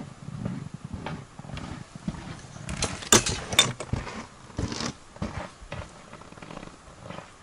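Rustling with scattered sharp clicks and knocks from handling fishing gear in the tent. The loudest pair of clicks comes about three seconds in.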